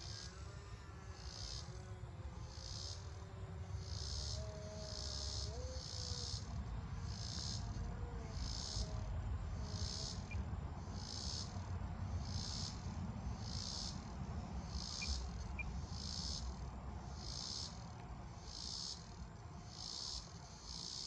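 Evening insects chirping in a steady pulsing rhythm, about one and a half chirps a second. In the first half, the faint whine of the UMX Turbo Timber's small electric motor drifts up and down in pitch with the throttle, then fades out about halfway through. A low rumble runs underneath.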